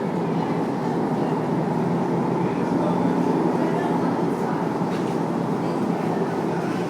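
Steady running noise inside a moving RET Alstom Citadis tram: wheels on the rails and the traction drive, at an even level.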